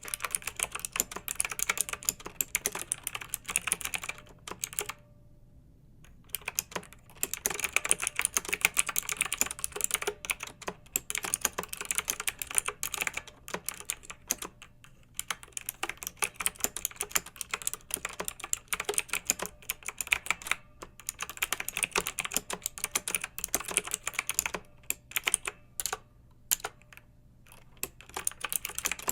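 Clicky mechanical keyboard being typed on in fast, uneven runs of keystrokes, with short pauses, the longest about five seconds in.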